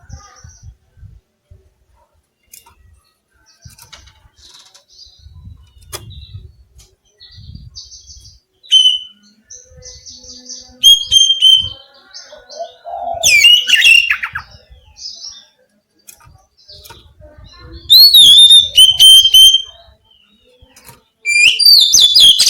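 Pet oriental magpie-robin (kacer) singing in bursts of loud whistled and chattering phrases, five or so outbursts separated by pauses of one to a few seconds.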